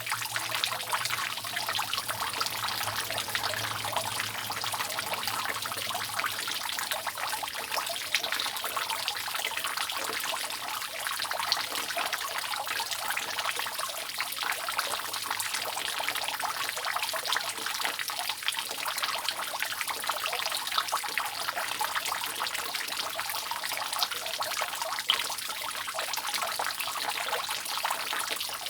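Water dripping and trickling continuously off a roof: many drops falling at once, steady throughout.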